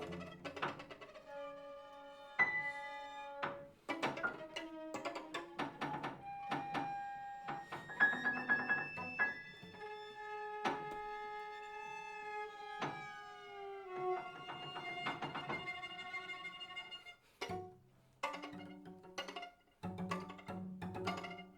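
Piano trio of piano, violin and cello playing contemporary chamber music: sharp struck piano notes and knocks among held string notes, with the held notes sliding slowly downward midway through.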